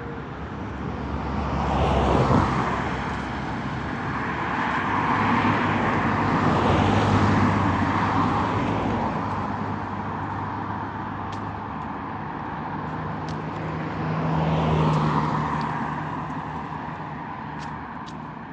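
Road traffic: vehicles passing one after another, each swelling up and fading away, with three loudest passes at about two, seven and fifteen seconds in.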